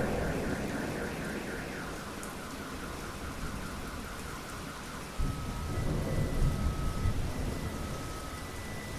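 Steady rain falling, with a roll of thunder dying away at the start and a fresh low rumble of thunder breaking in suddenly about five seconds in. A faint high chirp repeats evenly above the rain.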